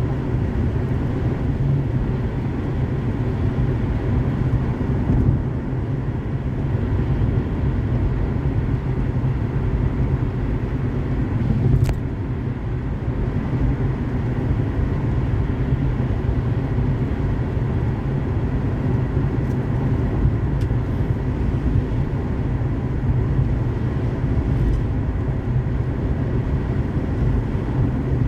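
Car driving at highway speed: a steady low rumble of tyre and road noise, with one short click about twelve seconds in.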